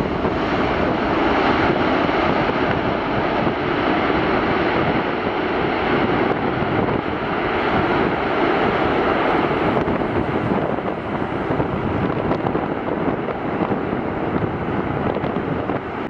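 Jet airliner's engines, a loud steady rush that eases slightly over the last few seconds as the plane moves away.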